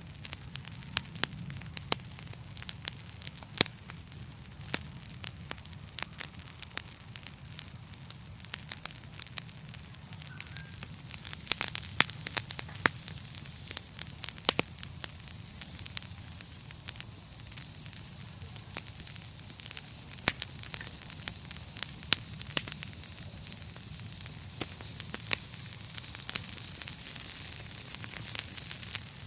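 Wood fire burning in a fireplace: a steady low rumble and hiss of the flames with frequent sharp, irregular crackles and pops.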